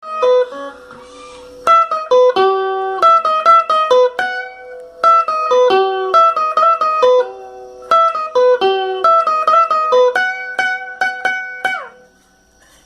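Guitar picking a melody in quick plucked notes, with a few chord strokes. The last note bends down in pitch near the end, and then the playing stops.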